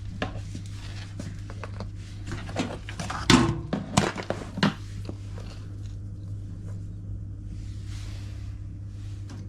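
Scattered clicks and knocks of hands working fastenings loose inside an LG washing machine's cabinet during disassembly, loudest in a quick run of knocks about three to five seconds in.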